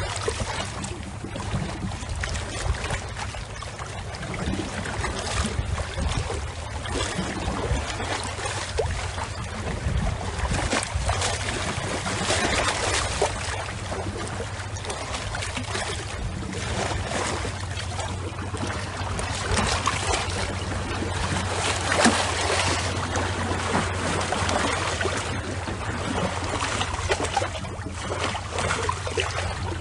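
Water lapping and splashing in a steady, crackly wash, with a steady low hum underneath.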